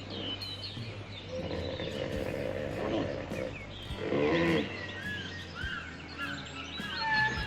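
Animal calls over background music: a low pitched call, a louder one about four seconds in, then a run of quick high chirps.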